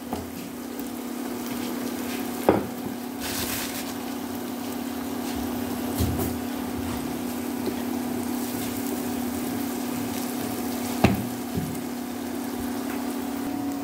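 Onion-and-spice masala sizzling as it fries in oil in a pan, stirred with a wooden spatula that knocks against the pan a few times. A steady low hum runs underneath.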